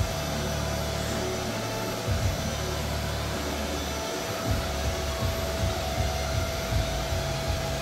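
Steady rushing noise of workshop air-moving machinery, such as an extraction fan or dust extractor, with a faint steady whine running through it.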